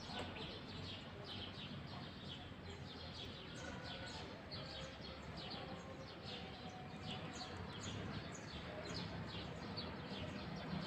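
Many small birds chirping: a steady stream of short, high, downward-sliding chirps, over a low steady background hum.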